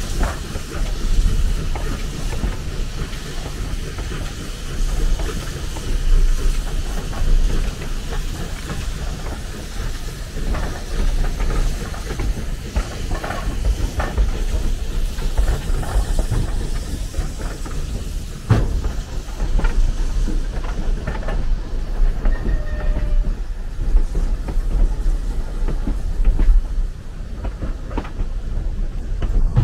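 Narrow-gauge train rolling along the track with a steady low rumble, broken by frequent clicks and knocks of wheels over rail joints.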